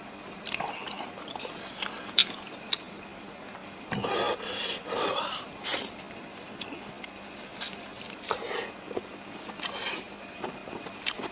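Close-up chewing of blood sausage: wet mouth smacks and clicks, with two sharp clicks early on and bursts of squishy chewing noise in the middle.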